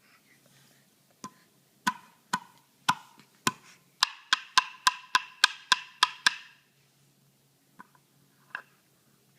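A series of sharp knocks on a hard object, each with a short ring. Five come about half a second apart, then a quicker run of about four a second, and two faint ones near the end.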